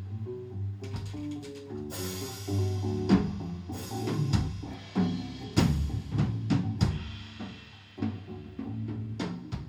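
Live band playing an instrumental passage: a drum kit with kick, snare and cymbal crashes over sustained bass and guitar notes.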